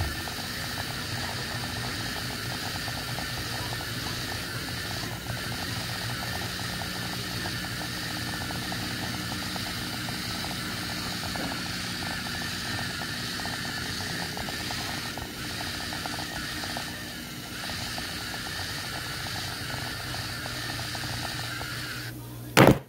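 Small electric motors whirring steadily with a fine rapid flutter: a toy robot's drive running. A brief louder sweep comes near the end, then the sound cuts off suddenly.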